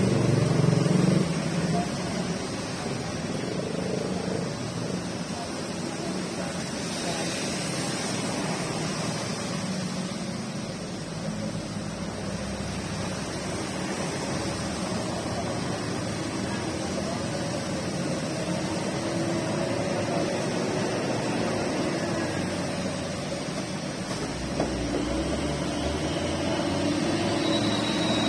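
Steady rain hiss with road traffic passing, a heavier vehicle rumble swelling twice, and faint voices in the background.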